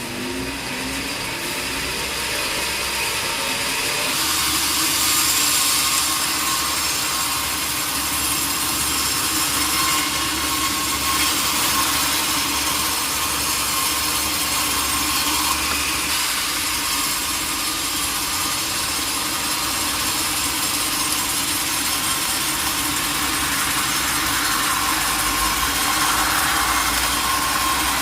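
Sawmill saw cutting through a large log. Its pitch rises over the first few seconds, then it runs steadily, with a strong hiss and a held hum.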